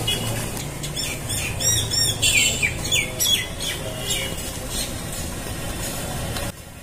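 Small birds chirping: a quick run of short chirps in the first three seconds or so, over a steady low hum. The background drops off suddenly near the end.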